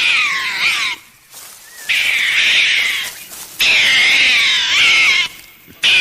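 An animal calling four times in loud, high-pitched, wavering cries of about a second each, with short pauses between.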